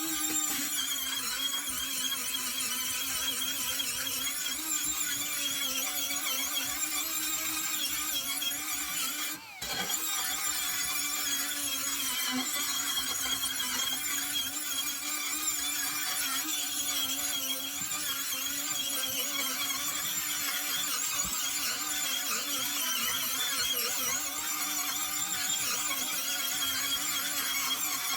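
Small high-speed rotary power tool running steadily against the antique ice claw's metal, with a held whine. It cuts out briefly about nine and a half seconds in, then carries on.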